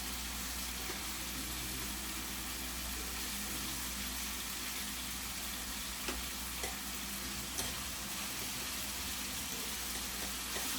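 Chicken pieces frying in hot oil with a steady sizzle, being cooked through before the greens go in. A few faint clicks come between about six and eight seconds in.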